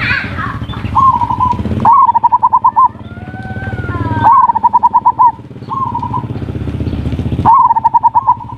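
Zebra dove (perkutut) cooing: about five phrases of rapid pulsed notes held near one pitch, repeated every second or two, with a few gliding whistled notes between them, over a steady low rumble.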